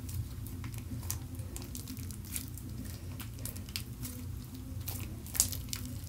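Glue-based slime being stretched and squished between fingers: scattered small sticky pops and crackles, with one louder pop about five seconds in, over a steady low hum.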